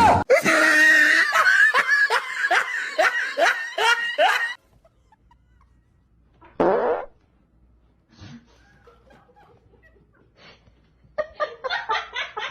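A person laughing hard in a run of repeated, falling 'ha' strokes for about four seconds, then quiet apart from one short sound, and laughing again near the end.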